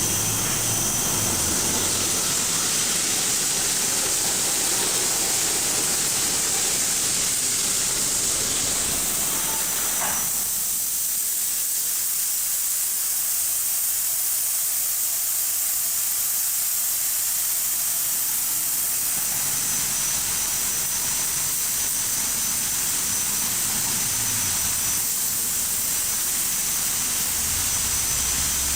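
Belanger FreeStyler automatic car wash spraying water, a steady loud hiss. A low machine hum under it drops away about ten seconds in and returns in the last third.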